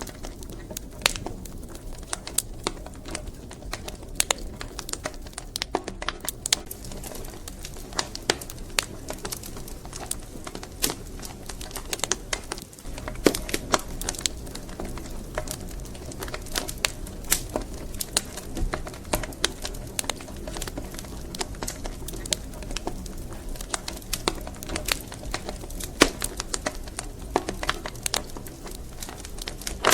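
Wood fire crackling: irregular sharp pops and snaps over a steady low hiss and rumble of burning logs.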